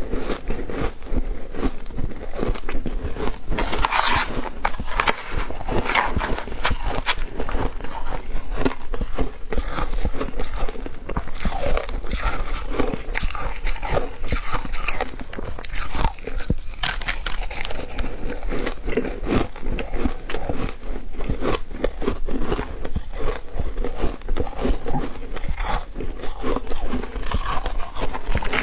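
Shaved ice being bitten and chewed close to the microphone: a continuous crunching and crackling of many small clicks, with no pauses.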